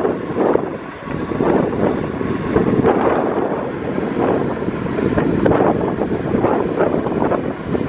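Diesel engine of heavy earthmoving machinery (bulldozer or dump truck) running loudly and steadily, with small uneven surges.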